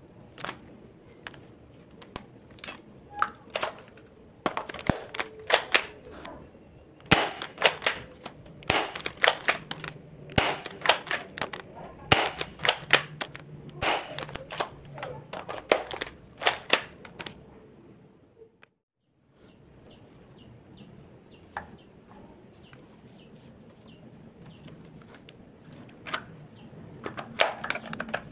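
Spring-powered airsoft guns being cocked and fired: a rapid run of sharp clicks and snaps through the first two-thirds, then a brief break. After it come fewer, quieter clicks and a last cluster of snaps near the end.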